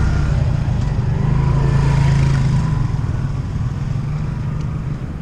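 Motor vehicle engine running steadily with road noise, a low hum under a continuous rush.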